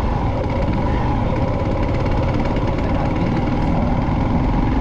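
Motorcycle engine running steadily while riding, with a continuous low rush.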